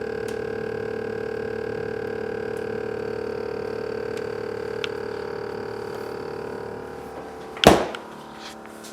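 Refrigerator freezer section of a GE Profile PSS26SGRC making a very loud steady hum of several pitched tones with a slight rapid pulsing, which the owner says appears to be the fan. The hum fades near the end, and one sharp thump comes shortly before the end.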